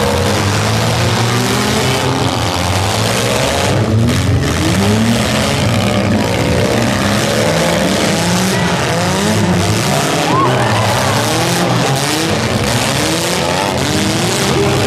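Several demolition derby cars' engines running and revving at once, many pitches rising and falling over each other, with some tyre skidding in the dirt.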